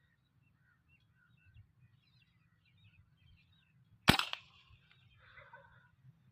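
A single shot from a PCP air rifle about four seconds in, a sharp crack with a brief ring. Small birds chirp faintly before it, and a bird calls shortly after.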